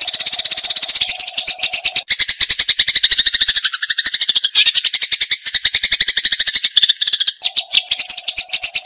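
Eurasian tree sparrow giving its fast, unbroken fighting chatter, a rapid run of many short notes a second. From about two seconds in until near the end the notes carry a lower, more tonal ringing part before returning to the plain chatter.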